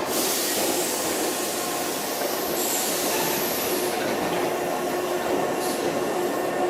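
Electric commuter train moving along the station platform: a steady rumble and hiss with a few steady tones running through it, starting suddenly.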